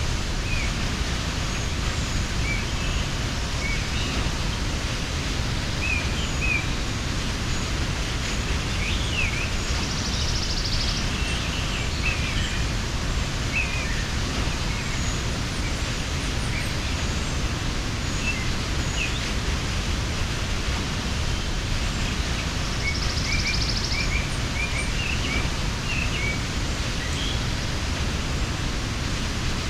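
Waterfall rushing steadily, with birds chirping in short scattered calls over it and a brief buzzy trill twice.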